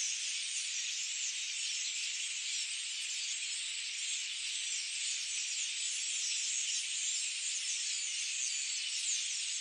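Dense chorus of many birds chirping at once, forming a steady, high-pitched twittering wash with no low sounds beneath it.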